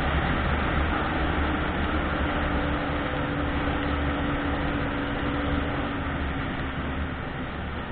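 Car driving in the rain: a steady low rumble of engine and tyres under an even hiss of rain and wet road, with a faint steady hum that fades out near the end.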